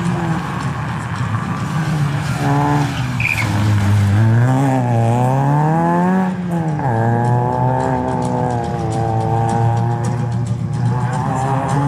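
Rally car engine revving hard under acceleration. Its pitch climbs for a couple of seconds, falls sharply about halfway through, then holds at steady high revs as the car pulls away.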